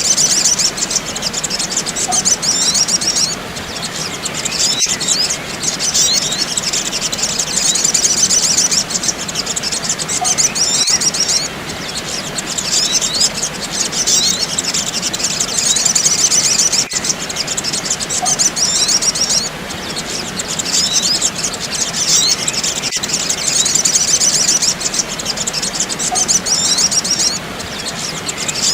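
Sunbirds twittering: dense, high-pitched chirping trills in bouts of a few seconds, broken by short pauses and repeating evenly, as in a bird-lure call recording.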